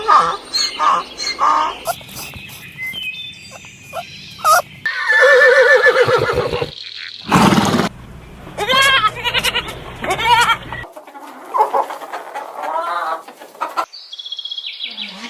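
A run of different animal calls, one short clip after another, with abrupt cuts between them about every two to three seconds. Most are pitched calls such as bleats and bird or fowl cries.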